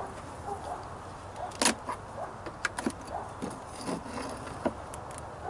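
Scattered light clicks and knocks of hive parts being handled as a top bar hive is worked through, the sharpest knock about a second and a half in.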